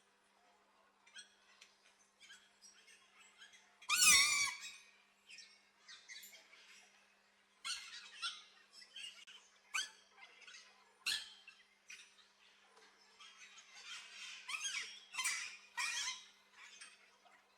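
Aviary birds calling: many short chirps and squawks scattered throughout, with one loud, harsh squawk about four seconds in.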